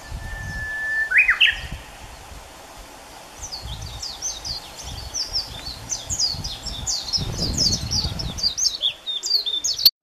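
Songbirds singing: first a long held whistled note ending in a quick rising flourish, then from about three and a half seconds a rapid, high twittering song, over a low rumble.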